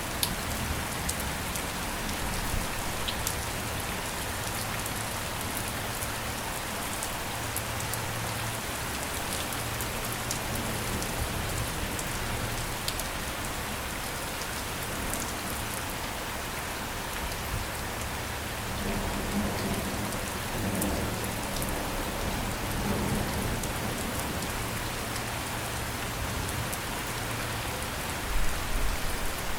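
Steady rain falling on a surface, an even hiss with scattered sharp drop ticks. A low rumble swells about two-thirds of the way through, and a brief loud low thump comes near the end.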